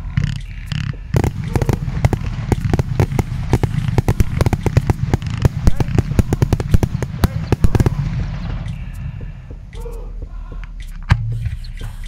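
Consumer firework battery firing: a dense run of rapid sharp cracks for about eight seconds, then thinning to scattered cracks as it burns out, with one louder bang near the end.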